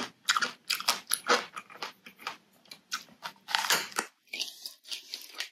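Crunching and chewing of a bitten raw round Thai eggplant: a quick, irregular run of crisp crunches that thins out about four seconds in.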